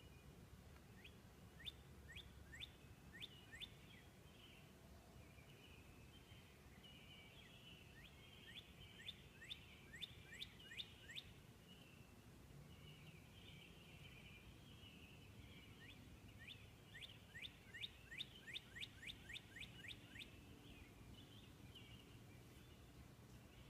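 Northern cardinal singing three phrases of quick, repeated downslurred whistles, the last phrase the longest and fastest, over faint twittering of other birds.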